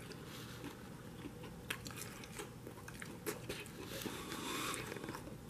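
Faint chewing of a bite of breaded, deep-fried jumbo shrimp, with scattered small clicks.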